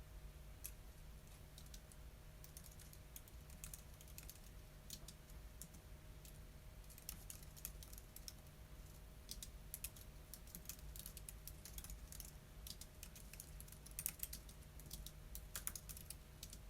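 Typing on a computer keyboard: faint keystrokes, scattered at first, then in quicker runs through the second half, with a couple of louder key hits near the end. A faint steady hum lies underneath.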